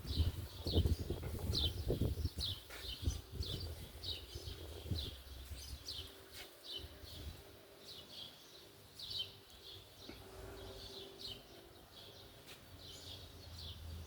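A small bird chirping over and over, short high notes about two a second. Low thumps and rumble in the first five seconds.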